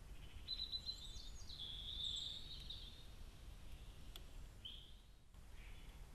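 Songbirds singing, several short warbling phrases in the first half, then a single brief chirp, over a steady background hiss. A faint click about four seconds in.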